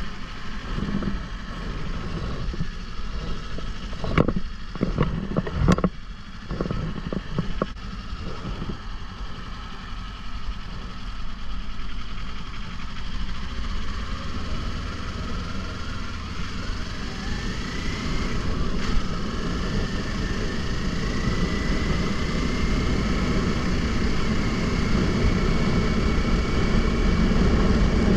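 Wind rumbling on a helmet-mounted action camera's microphone while riding a Kawasaki Ninja 500, with the engine's whine climbing slowly in pitch through the second half. A few sharp knocks come about four to six seconds in.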